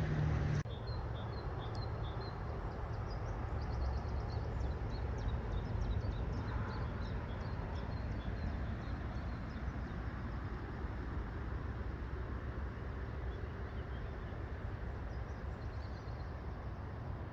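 Steady outdoor background noise with a low rumble, and small birds calling in quick repeated high notes, mostly in the first half.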